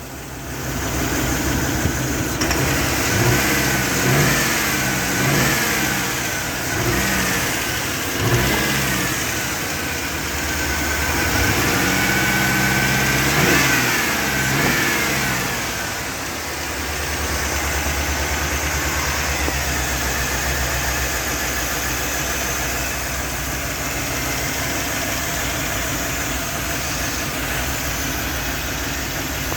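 GM 5.3-litre V8 revved in several short blips in the first half, then settling to a rough, uneven idle. The rough running is the sign of a bad fuel injector.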